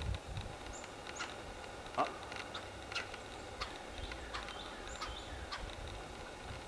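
Scattered short bird chirps and calls, several sliding down in pitch, with faint clicks between them.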